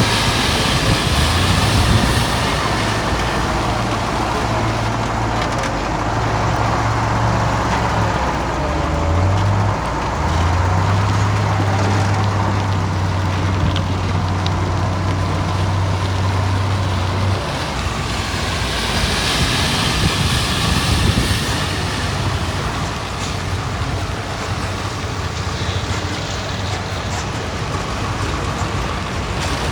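Heavy diesel earthmoving machinery working. Its low engine note shifts up and down in pitch, with a continuous mechanical rumble and clatter underneath. The engine tone drops away a little past halfway, leaving the rumble.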